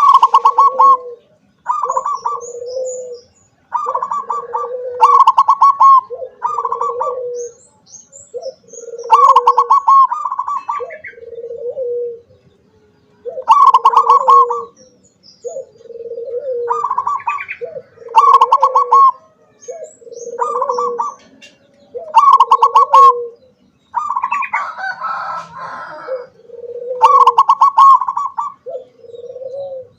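Zebra dove (perkutut) singing its repeated song, about a dozen phrases, each a fast rolling trill followed by a lower, drawn-out coo. Faint high chirps of small birds sound between the phrases.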